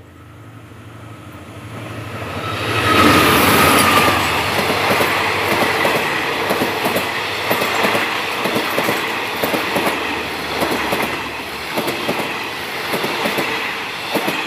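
Diesel-electric locomotive-hauled passenger train passing at speed: the locomotive's engine grows louder as it approaches and goes by about three seconds in, then the coaches' wheels clack over the rail joints as the train runs past.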